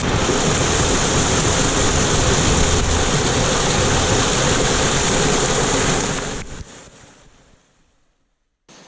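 Rushing water of a waterfall: a loud, steady rush that fades out about six seconds in.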